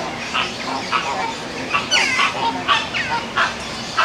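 Birds calling: a quick string of short, loud calls, each sliding down in pitch, some overlapping one another.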